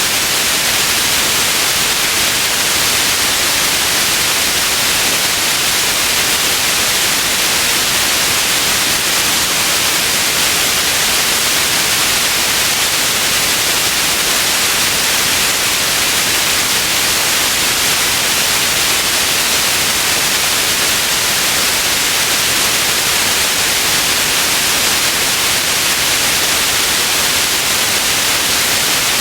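Steady, loud white noise: an even, unchanging hiss, strongest in the upper range, with no other sound.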